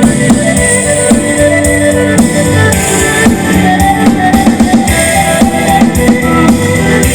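Band playing instrumental music at a sound check: a drum kit keeping a steady beat under guitar and other held melodic notes.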